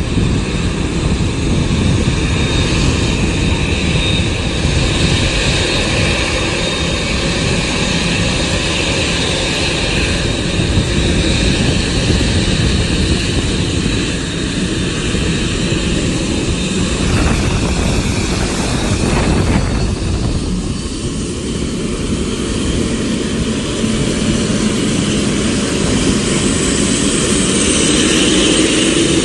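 Boeing 787-9 airliner's jet engines running steadily: a loud, even rush with faint high whining tones on top.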